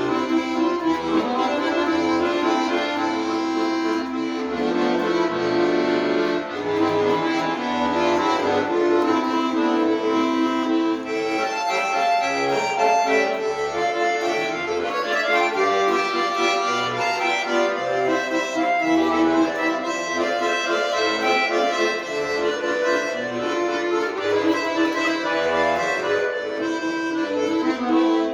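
Accordion playing a song solo: a sustained melody over chords, with separate low bass notes keeping time.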